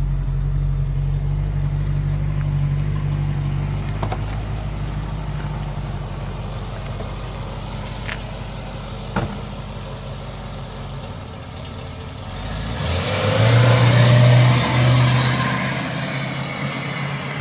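A 1966 Ford Mustang convertible's engine running steadily at idle, with a few sharp clicks along the way. About three-quarters through it gets much louder with a rush of noise as the engine is revved or the car pulls away, then eases off.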